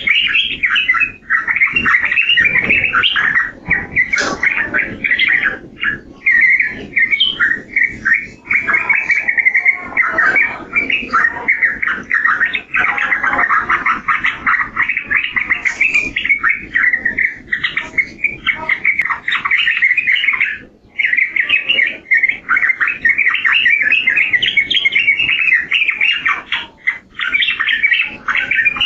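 Yellow-vented bulbul (trucukan) singing a long, fast, almost unbroken run of chattering notes, with only brief pauses, over a faint low background rumble.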